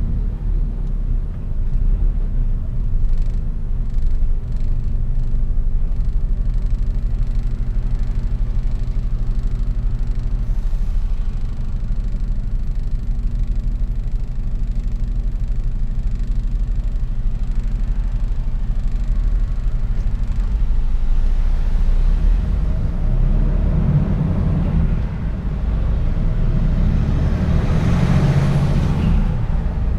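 Mercedes-Benz Actros truck driving, its diesel engine and road noise making a steady low rumble. The noise swells to a louder peak near the end.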